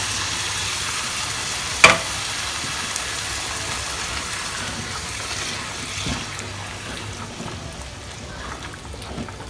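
Ground beef, onion and spices sizzling in a frying pan as crushed tomatoes go in, with one sharp knock about two seconds in. The sizzle gradually dies down.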